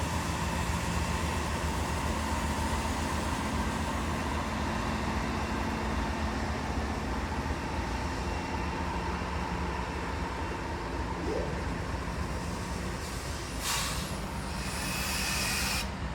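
Norfolk Southern diesel locomotives idling steadily on a stopped freight train, with a short burst of hiss and then a longer hiss near the end.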